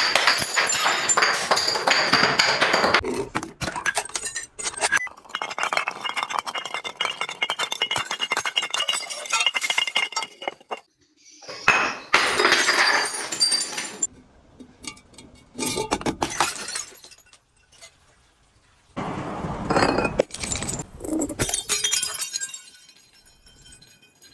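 Glass being crushed and broken: dense crunching and clinking of shattering glass in several bursts with short pauses between.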